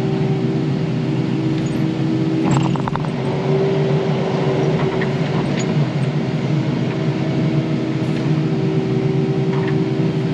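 Crawler dozer's diesel engine running steadily under load, with a brief metallic clatter about two and a half seconds in.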